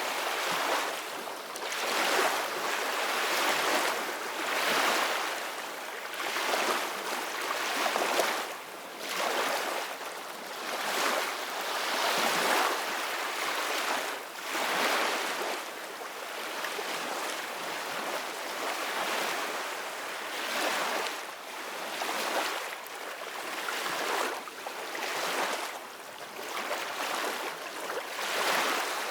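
Ocean waves washing onto a beach, a steady surf that swells and ebbs in surges every two seconds or so.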